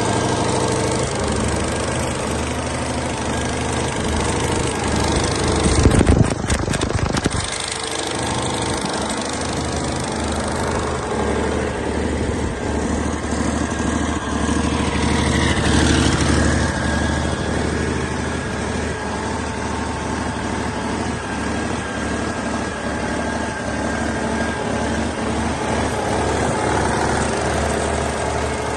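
Cummins ISX inline-six diesel truck engine (ISX 565, CM870) running steadily on a test run. About six seconds in it briefly gets louder and harsher for a second or so, then settles back to a steady run.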